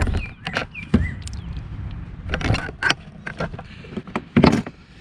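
Irregular knocks and clatter of gear being handled against a fishing kayak's hull, the loudest knock shortly before the end. In the first second a small bird chirps repeatedly, each chirp a quick falling note.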